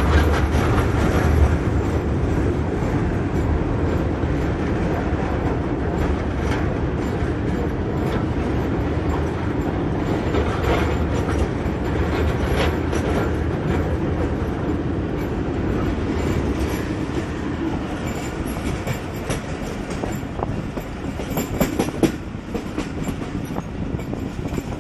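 Passenger train rolling over a steel truss bridge, heard from inside the carriage at an open window: a steady heavy rumble of wheels on rails with scattered clickety-clack from the rail joints. A few sharper clacks come near the end as the sound eases slightly.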